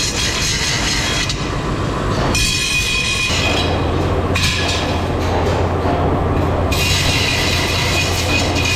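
Metalworking machinery running in a rim factory, a steady clatter with high metallic squealing tones and a low hum. The sound changes abruptly several times.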